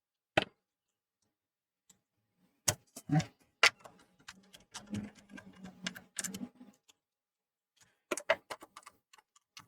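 Scattered clicks and light knocks of a PlayStation 4 Slim's parts and small tools being handled during reassembly, with a faint low hum for a couple of seconds in the middle.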